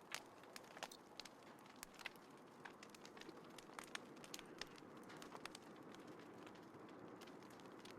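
Small wood fire in a folding fire stand crackling, with irregular sharp pops several times a second over a faint steady hiss; the strongest pop comes right at the start.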